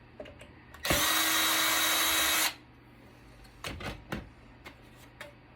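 Power drill run once at a steady speed for about a second and a half while a Cisco Catalyst network switch is taken apart. This is followed by a few light clicks and knocks of metal parts being handled.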